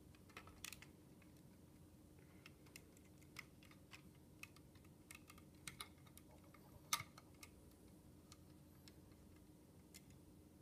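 Faint, irregular small plastic clicks and taps of LEGO pieces being handled as a LEGO catering truck is hooked up to a model plane, with a sharper click about seven seconds in.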